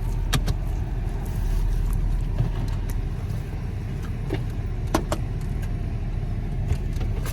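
Steady low rumble of an idling car engine heard inside the car, with a few light clicks and rustles.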